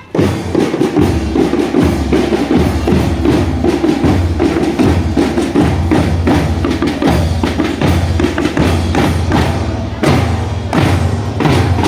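Marching drumband percussion playing: drums beating a fast, dense rhythm with heavy bass-drum strokes, starting abruptly and running on without a break, with a louder flurry of hits about ten seconds in.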